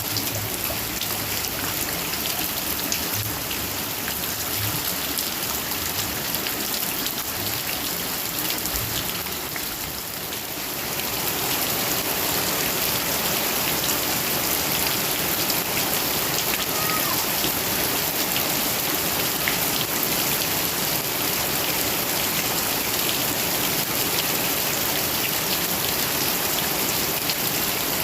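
Heavy rain falling and pattering on surfaces, a dense steady hiss with scattered drop ticks. It eases slightly about ten seconds in, then comes back a little heavier.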